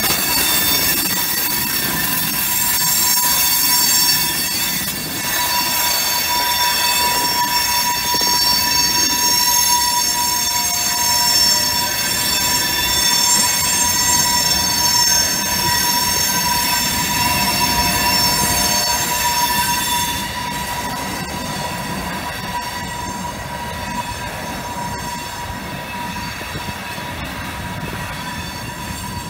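Loaded covered hopper cars rolling slowly along the rails, their steel wheels squealing in a set of steady high-pitched tones over a constant rumble. The sound becomes quieter about two-thirds of the way through as the cars move off.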